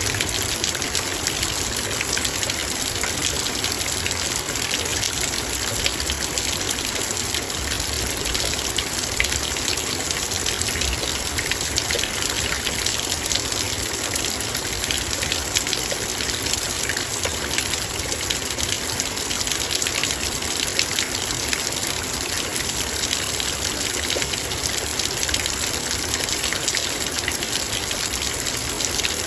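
Heavy rain falling on a metal bowl: a steady, dense rush of drops, with countless tiny ticks as individual drops strike the metal.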